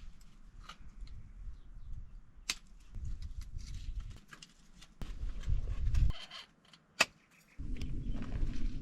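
Low rumbling noise with scattered light clicks and two sharp knocks, about two and a half and seven seconds in.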